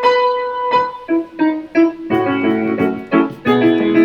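Keyboard playing the instrumental intro of a song: a few separate notes struck in turn, then fuller chords in a steady rhythm from about two seconds in.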